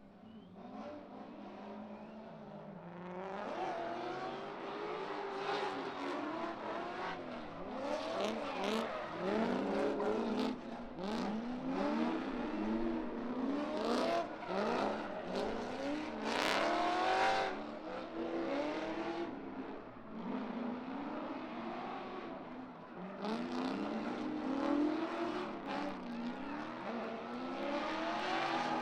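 Drift car engines revving up and down over and over, pitch rising and falling with each throttle blip.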